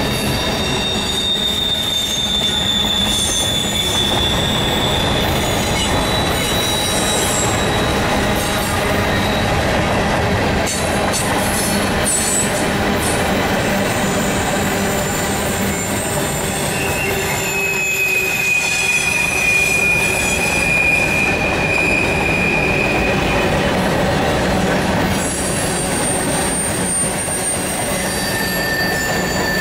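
Freight train rolling past at close range: a steady, loud rumble of wheels on rail, with long high-pitched flange squeals that come and go. One squeal opens the stretch, another rises about two-thirds of the way through, and a lower one comes near the end.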